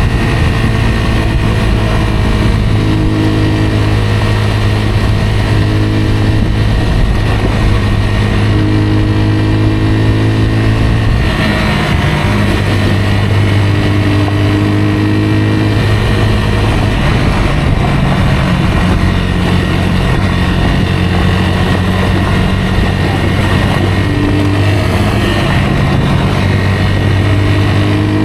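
Rieju Aventura 125's single-cylinder four-stroke engine running steadily as the motorcycle is ridden, its note shifting up and down with the throttle. The engine note breaks off briefly about eleven seconds in, then picks up again.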